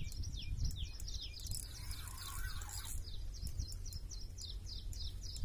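A bird calling over and over with short falling chirps, about four a second. About two seconds in comes a brief splash-like rush of noise, and a low wind rumble sits underneath.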